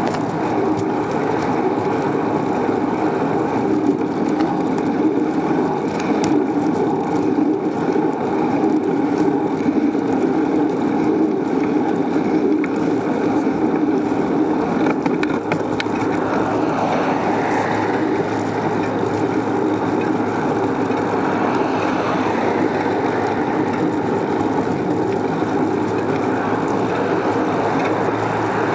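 Steady rumble of a moving bicycle ride: wind and road noise buffeting the recording without a break.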